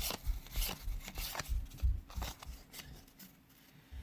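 Trading cards being flipped through by hand: a quick run of cardboard slides and flicks, card against card, dying down after about two and a half seconds.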